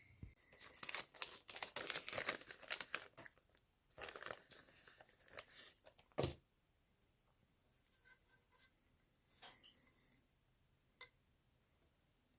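Faint handling noises: rustling, crinkling and tearing with many small clicks through the first six seconds, a sharper click about six seconds in, then only a few scattered faint clicks.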